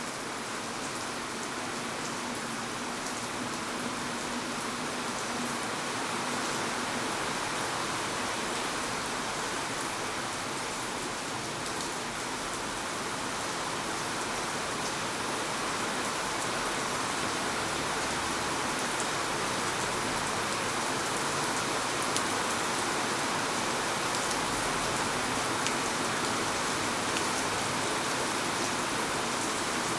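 Steady rain falling on hard city surfaces, a continuous hiss with scattered droplet ticks, growing slightly louder through the stretch.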